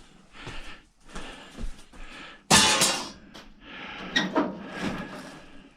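Metal clanking and clatter of tools and parts handled on a work table, a series of irregular knocks with the loudest a sharp, ringing clank about two and a half seconds in.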